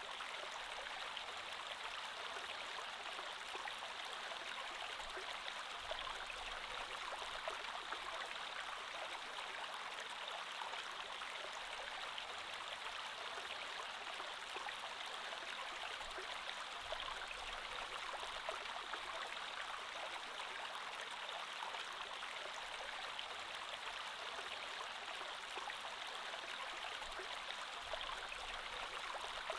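Creek water flowing steadily over rocks, a continuous rushing babble with fine splashing detail and no breaks.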